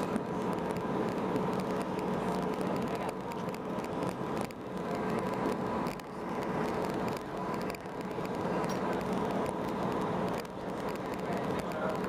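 Airbus A319 jet airliner running at low power before takeoff: a steady mechanical hum with a constant whine over a broad rushing noise, dipping briefly in loudness a few times.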